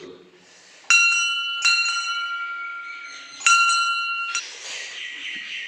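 Metal temple bell struck three times, each blow followed by a clear ringing tone; the ringing cuts off suddenly near the end.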